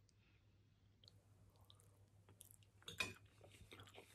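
Faint chewing of a mouthful of fresh ravioli, with small wet mouth clicks and one slightly louder click about three seconds in.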